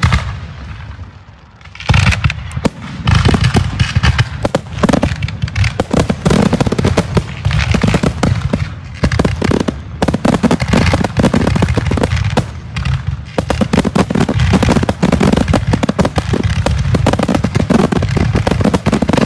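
Aerial fireworks display shells bursting in a finale barrage: one bang at the start, then from about two seconds in a dense, continuous run of booms and sharp cracks in rapid succession.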